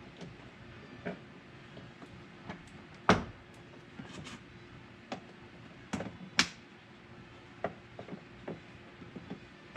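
Scattered sharp clicks and taps of plastic and metal as needle-nose pliers work on a truck door-handle assembly being taken apart. The loudest knocks come about three seconds in and again a little past six seconds.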